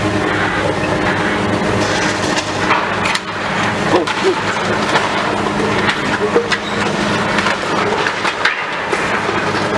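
Demolition machinery running steadily while debris is broken and crushed, with scattered sharp cracks and knocks from about three seconds in.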